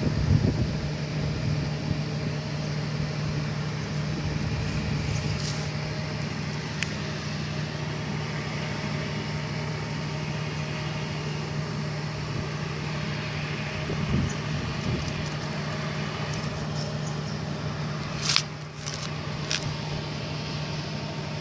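Steady low mechanical hum with background noise, broken by a few faint clicks and a sharper click about 18 seconds in.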